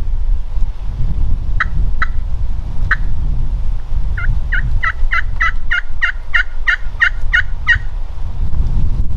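A run of turkey yelps: a few spaced notes, then about a dozen quick, evenly paced yelps from about four seconds in to nearly eight seconds, over a steady low rumble.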